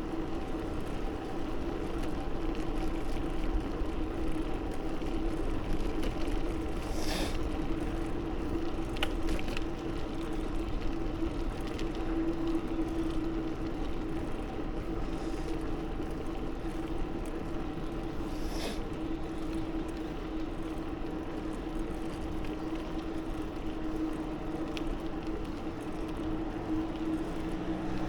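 Riding noise from a bicycle on the move: wind rushing over the microphone and tyres rolling on the path, with a steady hum throughout. Two brief rustles come about a quarter and two-thirds of the way through.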